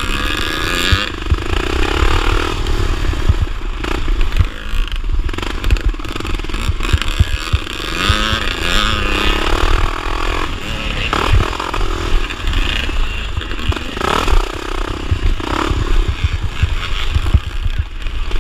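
Honda XR500 single-cylinder four-stroke motocross bike under hard racing use, its engine revving up and falling back again and again, with many short knocks and thumps from the bike over rough ground.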